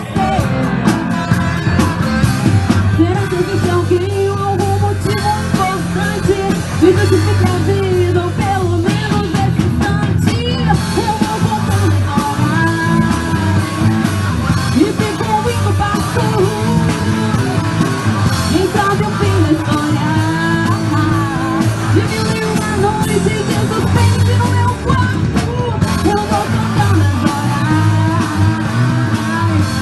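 Rock band playing live at full volume: drums, bass and electric guitars, with a singer.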